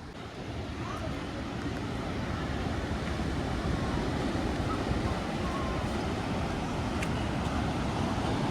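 Steady road traffic noise from passing vehicles, growing louder over the first couple of seconds.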